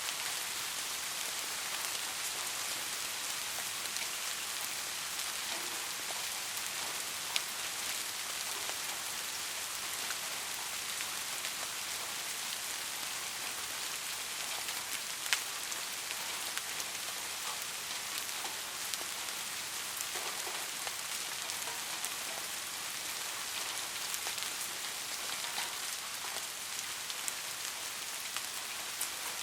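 Steady rain falling on a surface, a continuous hiss with scattered louder individual drops, the clearest about seven and fifteen seconds in.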